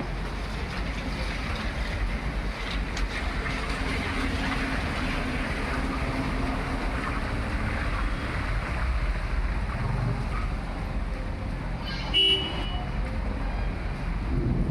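Steady wind and traffic noise in the open air, with a short high-pitched beep about twelve seconds in.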